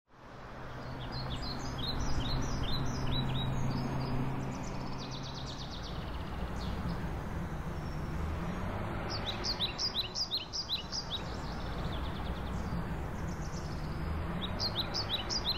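Songbirds chirping in several bursts of quick, high, repeated notes over steady outdoor background noise.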